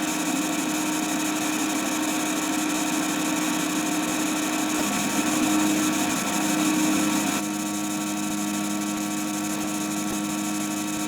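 A steady motor-like drone made of several held tones over hiss. The tones shift slightly about five seconds in, and the hiss drops about seven and a half seconds in.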